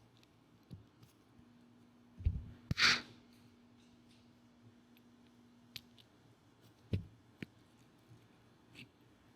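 Small clicks and knocks of side cutters and hands working at a motorcycle clutch cable's plastic fitting, with a low thud and a short breathy exhale about three seconds in.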